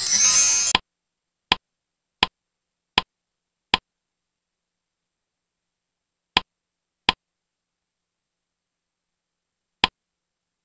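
Slideshow animation sound effects: a brief noisy whoosh in the first second as a picture swoops in, then short sharp clicks as words pop onto the slide, four in quick succession about three-quarters of a second apart, two more a few seconds later and one near the end.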